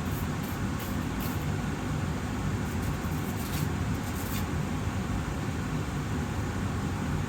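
Austin Air HealthMate air purifier running steadily: an even rush of air with a low hum under it.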